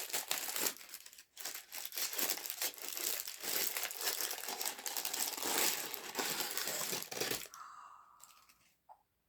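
Packaging crinkling and tearing as it is pulled away from a boxed cast iron cauldron, with continuous rustling and crackling for about seven seconds that then stops.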